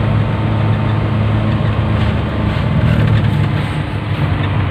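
A 1986 Suzuki Carry's engine running steadily as the van is driven.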